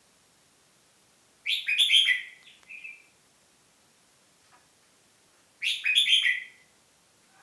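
A songbird singing two short, loud phrases of quick whistled notes, about four seconds apart; the first ends with a brief extra note.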